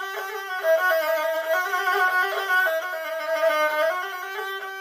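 Violin playing a melodic instrumental phrase of held notes that step from pitch to pitch, as an interlude in Arabic 'ataba folk singing.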